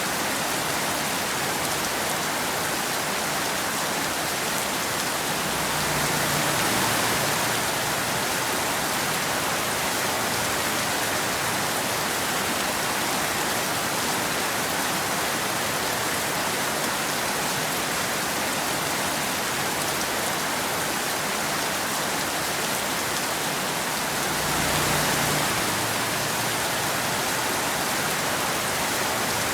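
Steady rain falling in a dense, even hiss. It swells slightly twice, about six seconds in and again near the end.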